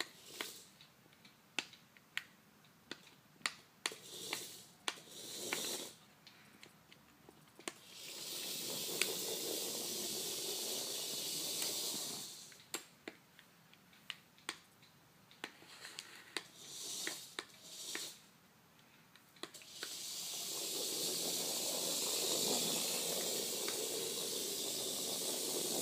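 Small electric drive motor and gearing of a 1:64 metal-kit RC model tractor running with a steady whirring hiss in two stretches of several seconds each, with sharp scattered clicks in between.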